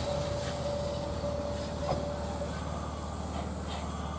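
Electric commuter train slowing into a station platform, the low rumble of its wheels on the rails under a steady high whine that stops a little past halfway, with a single sharp clack just before the whine ends.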